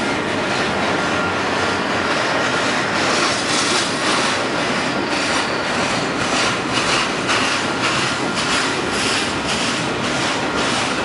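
Union Pacific double-stack container train cars rolling past: a steady rumble of steel wheels on rail, with repeated clacks as the wheels cross rail joints.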